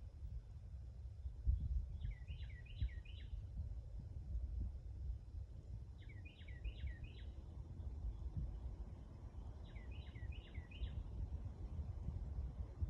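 A songbird singing a short phrase of four quick, falling whistled notes, three times at even spacing, over a steady low rumble.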